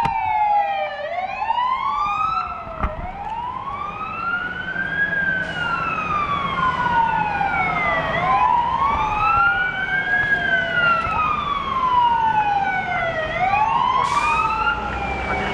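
Fire apparatus sirens on a slow wail, the pitch sweeping up and down every few seconds, with a second, higher siren overlapping, over the low rumble of the trucks. A short hiss comes near the end.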